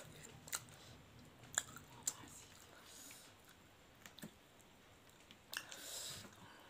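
Faint eating sounds: scattered mouth clicks and chewing of fried bora fritters eaten by hand, with a slightly louder, longer noise near the end.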